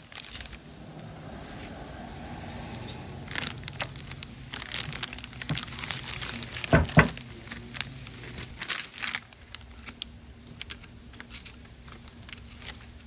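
Hands-on work at a truck's front brake caliper as it is lifted off and set onto the wheel assembly: crinkling and rustling with scattered clicks, and two loud knocks close together about seven seconds in.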